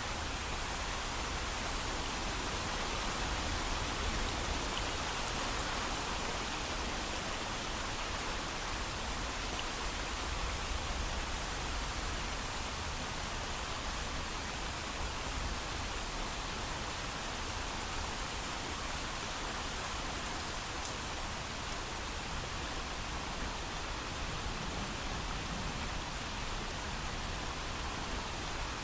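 Steady rain, falling evenly with no thunder.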